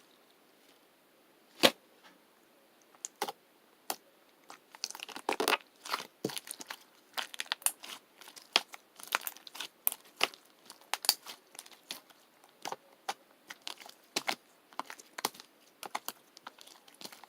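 Crunchy pearl-bead slime being squeezed and pressed by hand, giving many sharp, irregular crackles and pops. One loud pop comes about a second and a half in, and the crackling turns dense from about three seconds on.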